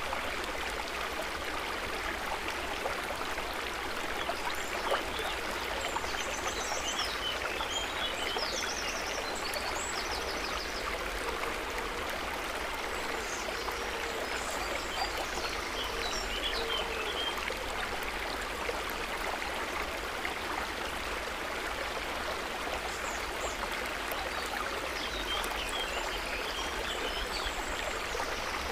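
Steady trickling, babbling water with faint high chirping calls in three short spells.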